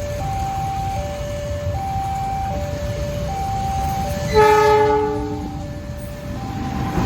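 Railway level-crossing alarm sounding two alternating tones, switching about every three-quarters of a second. A little past halfway a train horn blows once, loudest of all, for about a second before fading. Near the end the rumble of the approaching train rises.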